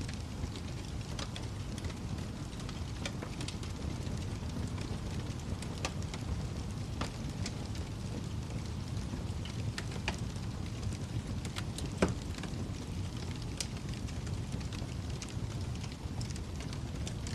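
Wood fire burning in a fireplace: a steady low rumble of flame with scattered crackles and pops, the loudest pop about twelve seconds in.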